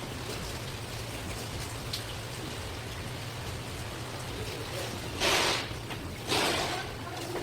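Water splashing, with a steady hiss and two short loud splashes about a second apart near the end.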